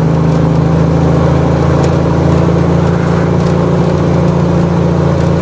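Mack truck's diesel engine running under load at a steady pitch, heard from inside the cab.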